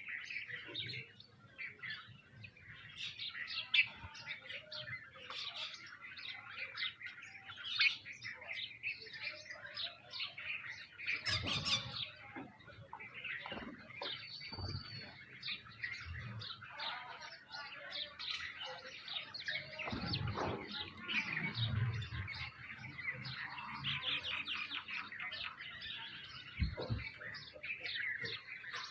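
Many small birds chirping and twittering at once, short overlapping calls without a break, with a few soft low thumps in the middle.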